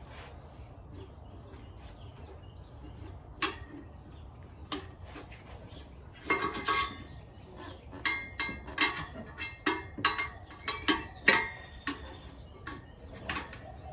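Steel tire spoons clinking and scraping against a motorcycle wheel rim as a tire is levered off by hand. A few scattered knocks come first, then a run of sharp metallic clinks, some with a brief ring, through the second half.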